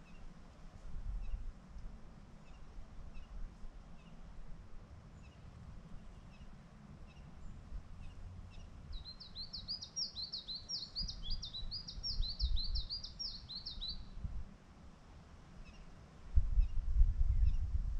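A songbird sings a rapid phrase of repeated high sweeping notes for about five seconds, with faint scattered chirps from other birds around it. A low wind rumble on the microphone runs underneath and grows much louder near the end.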